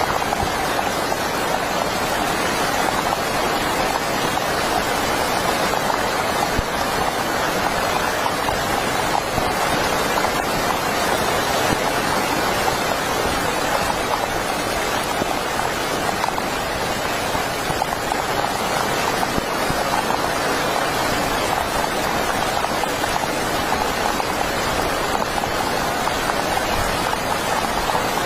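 Heavy rain falling steadily: a dense, even hiss of rain with no let-up.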